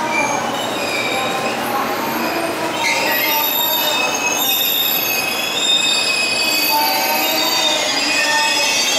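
JR Kyushu 811 series electric train arriving at the platform and slowing, its wheels squealing in several high, steady tones over the running rumble, growing louder toward the end.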